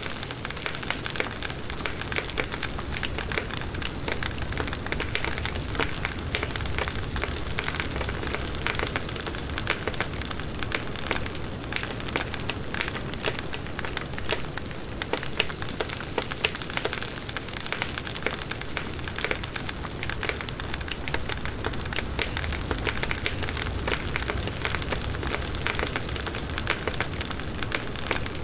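Firewood burning in a campfire: a dense, steady crackle of snaps and pops over a low rumble of the flames.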